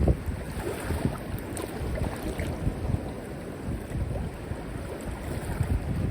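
Sea waves washing, with wind gusting on the microphone as an irregular low rumble.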